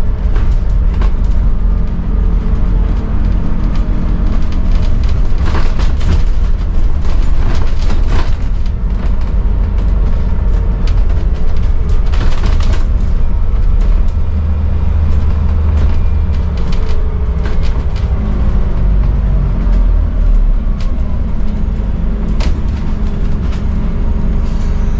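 Scania N280UD double-decker bus on the move, its five-cylinder diesel engine running with a deep rumble that rises and falls in pitch as it drives. Scattered sharp knocks and rattles from the bus body run through it.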